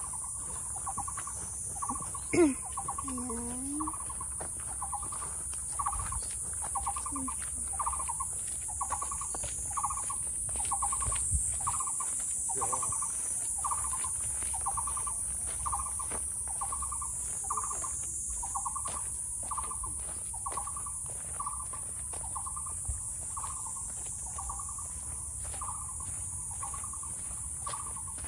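A bird calling one short note over and over at an even pace, about three calls every two seconds, over a steady high-pitched hiss. A single louder sliding call comes about two and a half seconds in.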